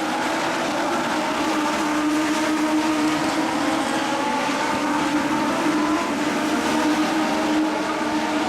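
Legends race cars' Yamaha motorcycle engines running at racing speed on the track, a steady high-revving drone whose pitch rises and dips slightly.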